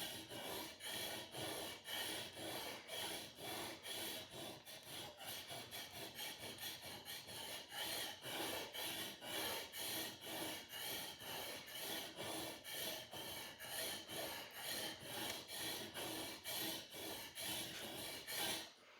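A sword blade being sharpened: rhythmic rasping strokes of steel scraping against a sharpener, about two to three strokes a second, which stop suddenly near the end.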